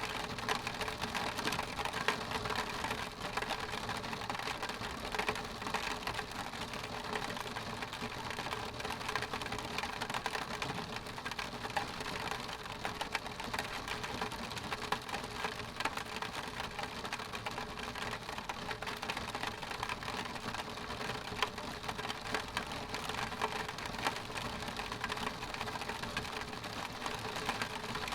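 Rain pattering steadily on window glass, a dense even mix of many small drop ticks with no let-up.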